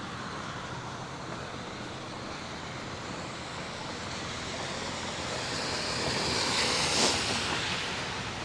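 A car passing close by, its tyres hissing on the slushy street. The hiss swells about five seconds in, is loudest around seven seconds, then fades back into steady traffic noise.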